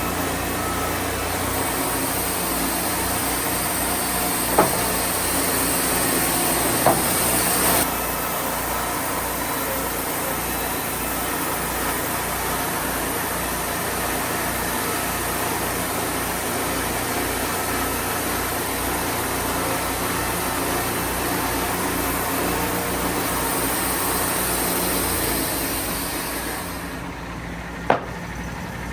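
Sawmill engine running steadily with an even low pulse, with a few sharp knocks and a hiss that comes and goes. The engine drops off a couple of seconds before the end.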